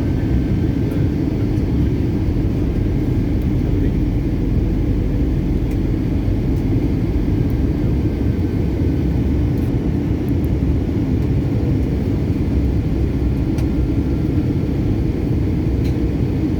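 Steady, loud rumble of engine and airflow noise inside an airliner's passenger cabin, deep and even throughout.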